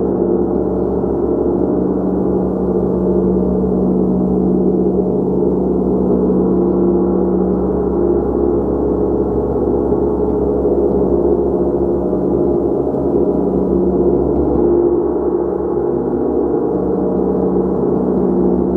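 Gong sounding continuously in a dense, steady wash of many overlapping low tones, with no single strike standing out.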